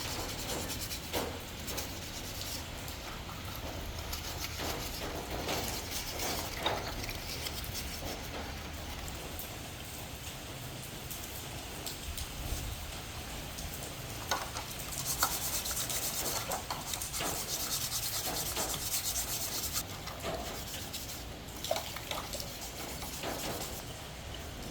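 Repeated rubbing and scraping of hand work, like sanding, with scattered small clicks and knocks. A steady hiss joins in about fifteen seconds in and stops about five seconds later.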